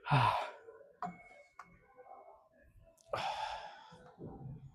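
A man's heavy breathing between efforts: a falling, voiced exhale at the start and a long breathy sigh about three seconds in, with a couple of light clicks in between.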